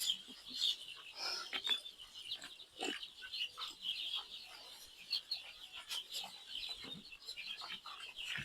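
A flock of young chickens peeping continuously, many thin high calls overlapping, with scattered light knocks; the birds are thirsty and crowding to drink.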